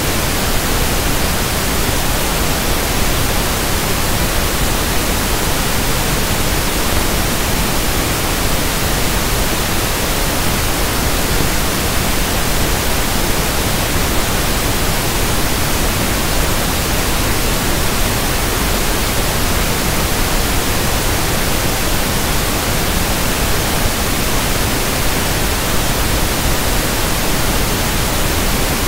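Synthetic 1/f pink noise: a steady, even hiss with no change or events.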